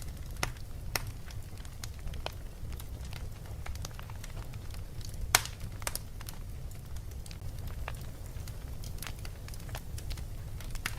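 Wood fire crackling in a fireplace: irregular sharp pops and snaps, the loudest about five seconds in, over a steady low rumble.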